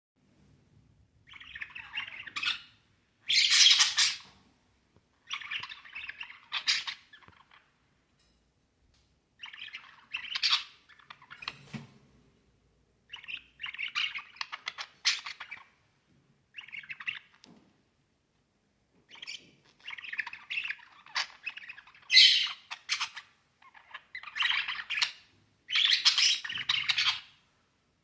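Budgerigars chattering and chirping in bursts of rapid warbling, each one to three seconds long, with short pauses between them.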